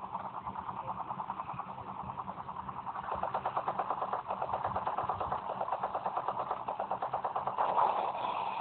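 Helicopter rotor and engine running, a fast, even beating chop that grows louder about three seconds in.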